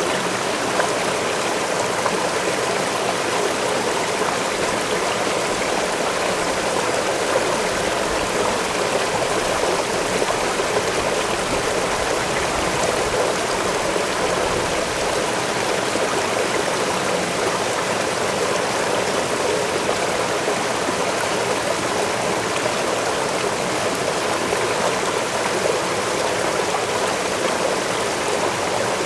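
Waterfall and the stream below it rushing steadily, an even splashing with no breaks.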